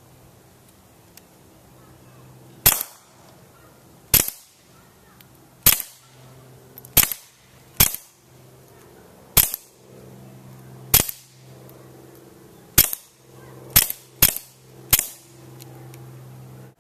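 Suppressed .22 LR shots from a Smith & Wesson M&P 22 pistol with a SilencerCo Sparrow suppressor: about eleven sharp cracks at an uneven, unhurried pace, a few in quick pairs near the end. A steady low hum runs between the shots.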